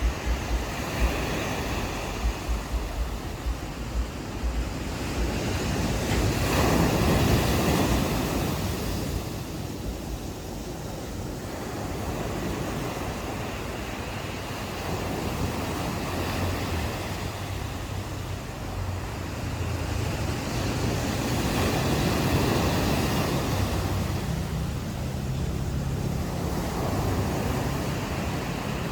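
Ocean surf washing onto a beach. It swells loudest about seven seconds in and again a little after twenty seconds, over a low rumble.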